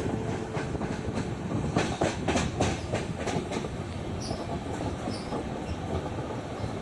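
Passenger train running along the track with a steady rumble. A quick run of wheel clacks over rail joints comes about two seconds in and lasts under two seconds.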